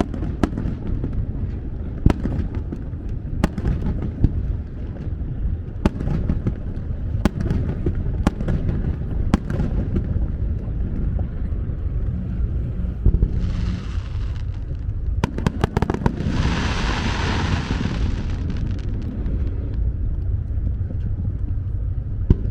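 Aerial fireworks going off: repeated sharp bangs over a continuous low rumble of booms, with two spells of crackling hiss partway through, the second longer and louder.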